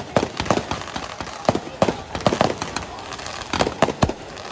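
Fireworks display: aerial shells bursting in a quick, irregular run of about a dozen sharp bangs and crackles.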